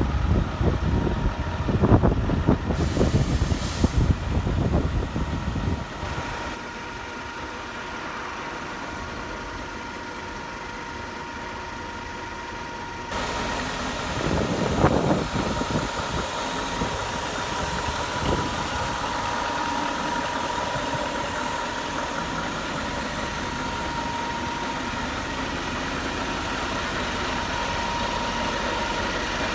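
Scania R520's 16-litre V8 diesel engine idling steadily, with wind buffeting the microphone in the first few seconds and a brief louder surge about halfway through.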